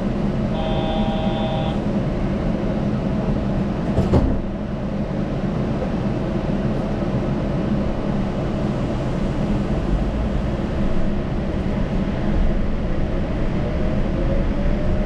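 Yurikamome rubber-tyred automated train running, heard from on board: a steady low rumble with tyre noise. A brief electronic tone sounds near the start, there is one sharp knock about four seconds in, and a faint rising motor whine comes in near the end.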